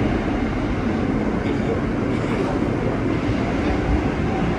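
Steady running noise of an R160 New York City subway car in motion, heard from inside the car: an even rumble of wheels and motors on the rails.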